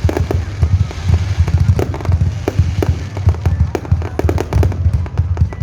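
Fireworks display: a dense, continuous barrage of many sharp cracks over deep booms.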